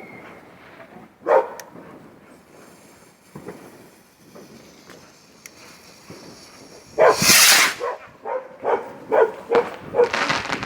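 A dog barking in a run of short repeated barks, with a loud sudden burst about seven seconds in.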